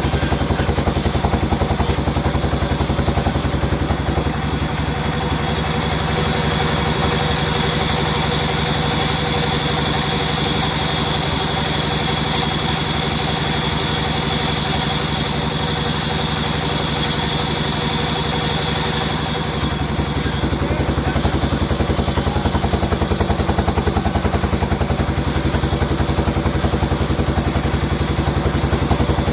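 Sawmill saw machinery running steadily with a fast, even pulse. From about four seconds in until about twenty seconds in, the sound changes and takes on a brighter, hissier edge.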